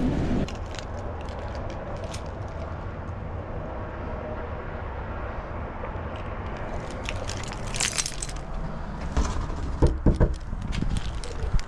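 Steady low rumble of a car, with a handful of sharp clicks and knocks in the last few seconds.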